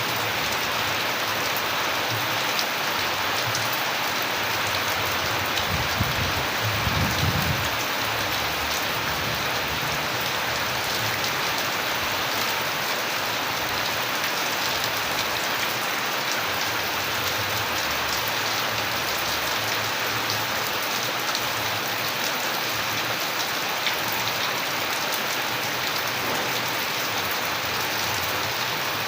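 Steady, heavy rain falling on a surface, a dense even hiss with individual drop ticks. A brief low rumble swells about six to seven seconds in.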